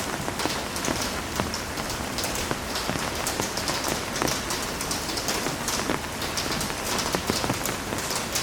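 Heavy rain falling steadily, a dense hiss with many individual drops pattering and splashing on a hard surface.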